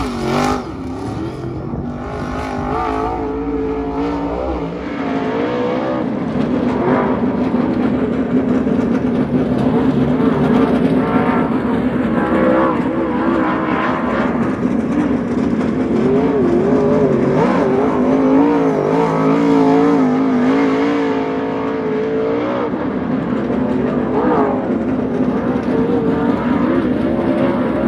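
Dirt super late model race car's V8 engine running at speed on track, its pitch wavering up and down with the throttle.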